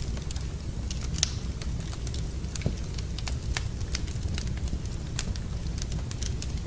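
Wood fire burning in a fireplace, crackling with irregular sharp snaps over a steady low rumble.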